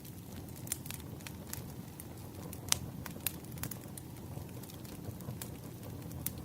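Wood fire burning: a steady low rush of flames with frequent irregular crackles and pops from the burning logs, one sharper pop near the middle.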